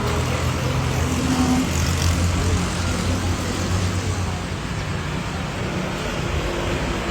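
Steady low rumble of jet airliner engines with a hiss over it, a little louder in the first few seconds.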